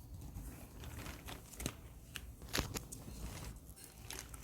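Light rustling and a few sharp clicks and crinkles of something being handled, the strongest clicks about one and a half and two and a half seconds in.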